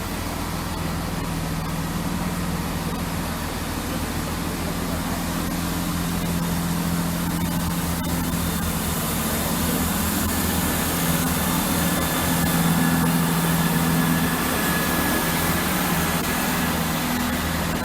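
Class 165 diesel multiple unit's underfloor Perkins diesel engines running as the train pulls away: a steady engine drone that grows gradually louder, with a hiss building from about nine seconds in.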